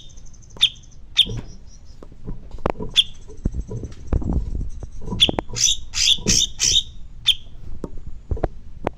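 Songbird calling loudly: series of sharp, piercing chip notes in clustered bursts, over a thin, high, steady trill at the start and through the middle. Scattered dull low thumps sound between the calls.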